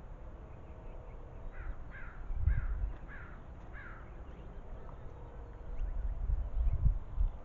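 A corvid out of sight gives five harsh calls in quick succession, each falling in pitch. Low rumbling bumps on the microphone come about two and a half seconds in and again near the end.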